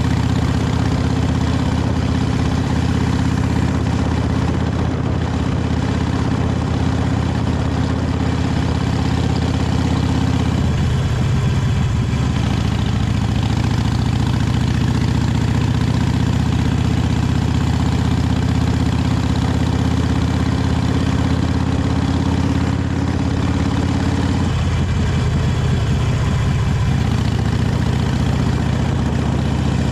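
Harley-Davidson Sportster 883 Iron's air-cooled V-twin engine running through its stock exhaust, a steady low rumble that shifts in pitch about a third of the way in and again near the end.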